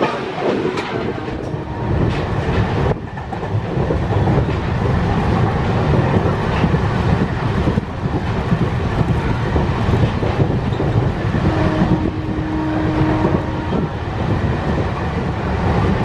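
MEMU electric multiple-unit train running along the line, heard from an open doorway: a steady rumble of wheels on the rails, with a few sharp clicks in the first seconds.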